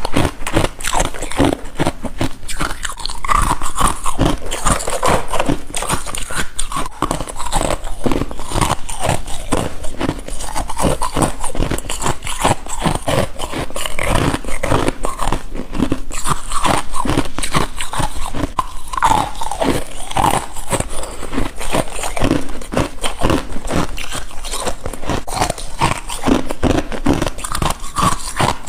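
A person biting and chewing solid freezer frost ice: repeated crisp crunches, one after another, with no pauses.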